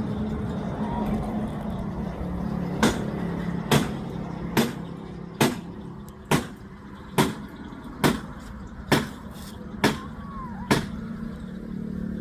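A regular knocking, about ten sharp knocks a little under a second apart, over a steady background hum like passing traffic.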